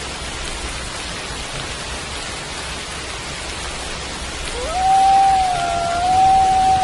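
Steady rain falling, with a wolf howl starting about two-thirds of the way in: one call that rises quickly and then holds a long, level note.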